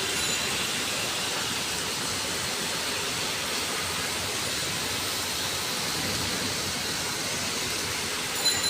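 Steady hiss of heavy rain, with a brief, sharper high-pitched sound near the end.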